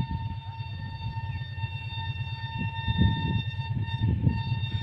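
Train horn held in one long steady note over the low, uneven rumble of the moving train on the track.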